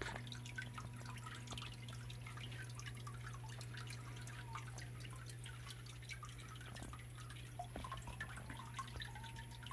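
Water of a small stone waterfall in a garden biotope pond, trickling and dripping with many small splashes, over a steady low hum.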